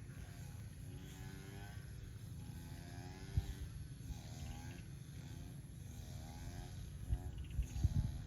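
An animal calling over and over, a short pitched note roughly every second, over a steady low rumble.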